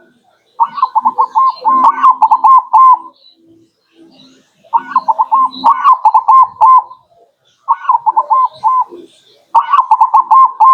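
Zebra dove (perkutut) song: four bursts of rapid, staccato cooing notes, each lasting one to two seconds, with short pauses between.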